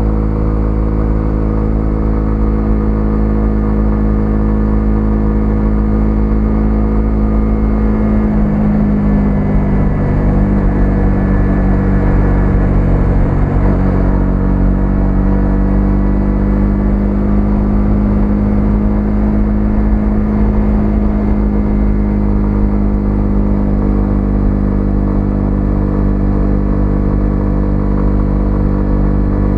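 Single-cylinder 125cc motorcycle engine running at steady cruising revs. About eight seconds in, the engine note wavers and dips, then settles back to a steady pitch a few seconds later.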